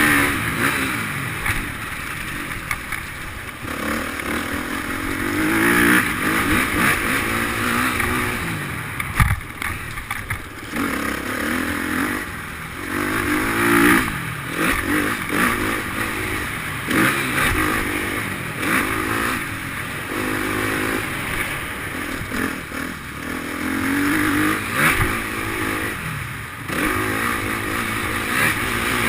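Motocross bike engine revving up and dropping back over and over as the throttle is opened and closed through the ride, with a few sharp knocks mixed in.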